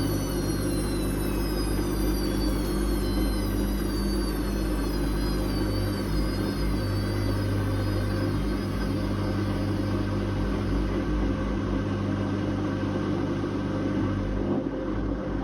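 Whirlpool Indiana 1400 washing machine running, with a steady low hum and a motor whine that falls steadily in pitch over the first several seconds as the drum slows.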